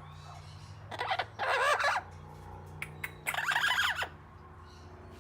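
Pet parrot calling twice, each call about a second long with a bending, wavering pitch, the second starting about three seconds in.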